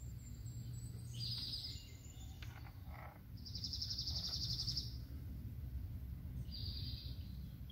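A songbird singing three rapid trills, the middle one longest, over a faint, steady low background hum.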